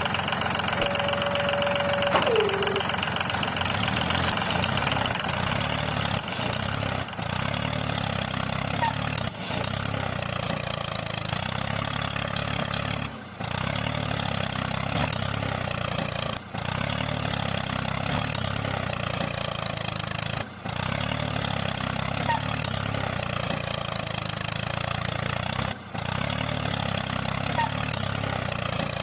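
H74 5cc two-cylinder four-stroke model gasoline engine running steadily, with brief dropouts several times. A short tone near the start slides down in pitch about two seconds in.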